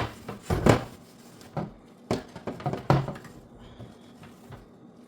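Irregular knocks and short scrapes of hard refrigerator parts being handled and scrubbed during cleaning, five or six separate clunks.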